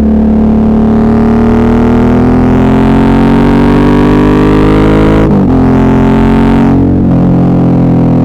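Suzuki V-Strom 650's V-twin engine pulling under load, its pitch rising steadily for about five seconds. There are brief breaks about five seconds in and again near seven, as with gear changes, and after them the pitch eases down.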